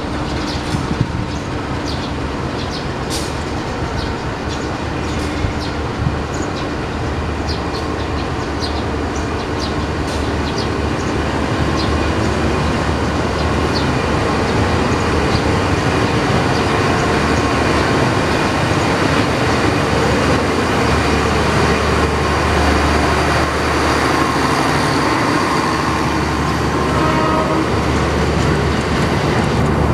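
Passenger coaches of a train rolling past close by: a steady rumble of steel wheels on the rails, with short sharp clicks and squeaks from the wheels over the first ten seconds or so.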